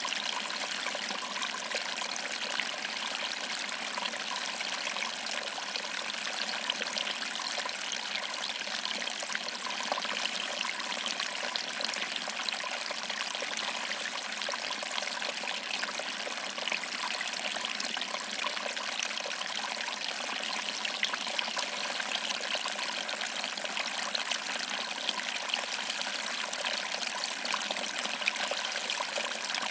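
Waterfall: a steady rush of falling water with fine, continuous splashing and trickling.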